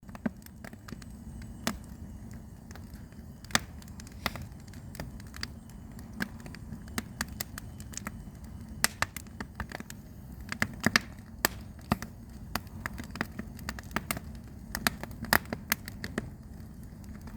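Burning firewood crackling, with irregular sharp pops over a steady low rumble.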